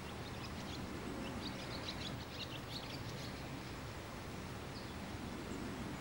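Outdoor countryside ambience: a steady low background noise, with a flurry of short, high bird chirps in the first half and a couple of faint chirps near the end.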